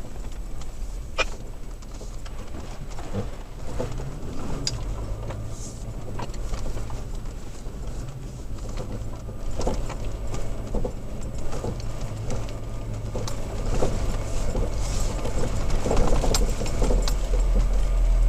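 Toyota Tacoma driven slowly over a rough trail, heard from the cab: a steady low engine drone with scattered knocks and rattles as the truck bounces over bumps. The engine note rises briefly about four seconds in, and the low rumble grows louder near the end.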